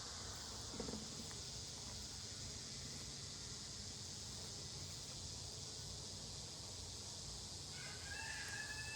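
Low steady buzzing of honeybees around an open hive under a steady high-pitched drone of summer insects. Near the end a faint steady tone with several pitches joins in.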